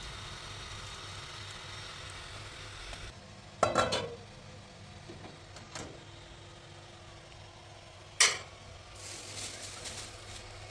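Kitchen cooking sounds: a steady sizzling hiss for the first three seconds, then a clatter of a utensil against cookware about four seconds in and a single sharp knock about eight seconds in.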